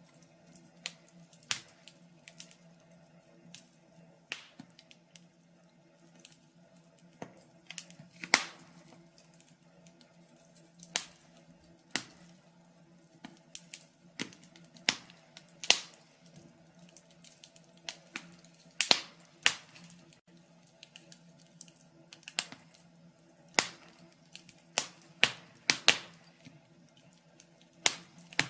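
Wood fire in a fireplace crackling: irregular sharp snaps and pops, a few of them louder, over a faint steady low hum.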